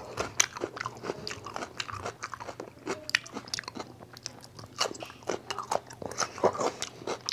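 A person biting and chewing raw cucumber slices, a quick irregular string of crisp crunches.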